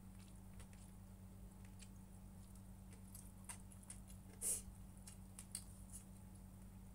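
Faint eating sounds: scattered small clicks, with one louder click about four and a half seconds in, over a steady low electrical hum.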